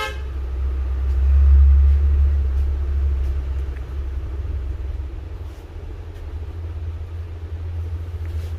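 Low rumble of a road vehicle, swelling over the first two seconds and then running steadily.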